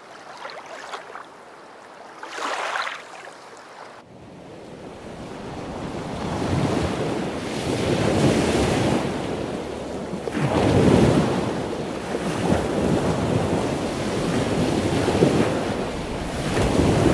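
Ocean surf sound, a rushing noise that swells and eases every few seconds, starting abruptly about four seconds in after a quieter stretch with two soft swishes.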